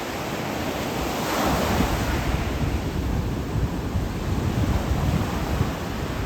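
Ocean waves washing onto the shore, one wash swelling up about a second in, with wind buffeting the microphone.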